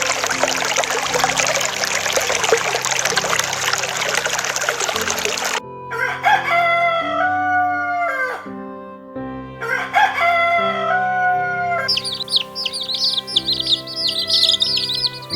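Rushing water for the first five seconds or so. Then a rooster crows twice, and rapid high-pitched chirping of small birds or chicks follows, over steady background music.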